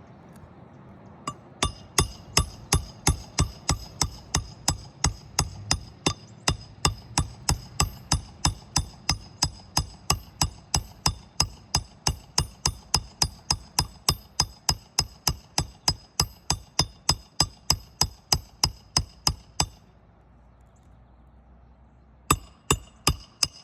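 Hammer driving nails into a roof shingle: a long, steady run of blows, about two and a half a second, each with a metallic ring. After a pause, four more blows come near the end.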